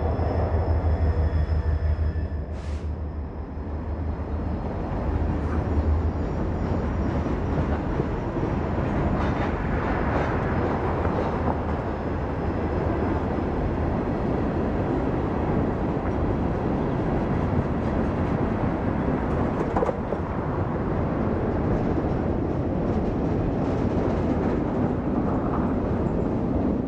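Freight train rolling past: a steady rumble of wheels on rail, with a deep low rumble strongest in the first couple of seconds.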